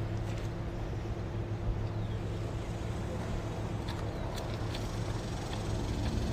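Steady low engine hum, like an idling vehicle or machine, with a few faint clicks.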